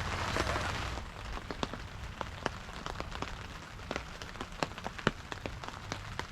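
Rain falling, a dense hiss for about the first second, then individual raindrops tapping sharply and irregularly on a surface, several a second.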